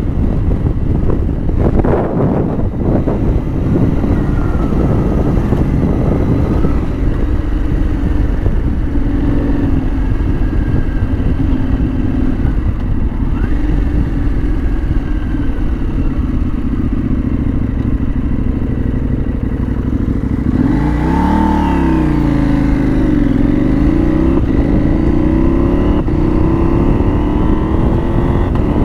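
KTM 790 Adventure R's parallel-twin engine running under way on a dirt road over a heavy rumble. About twenty seconds in, the revs climb, drop back and climb again.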